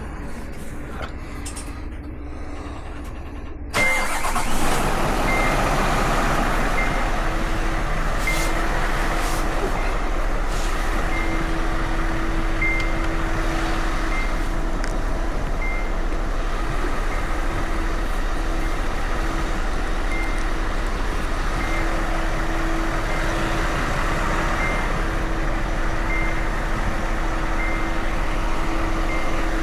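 A Scania V8 diesel truck engine comes to life suddenly about four seconds in and then idles steadily with a deep low hum, a faint regular tick sounding about once a second over it.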